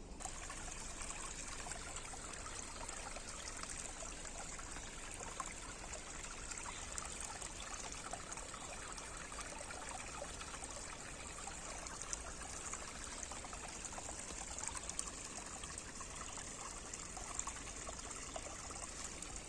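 Water trickling steadily over an old beaver dam, an even running sound.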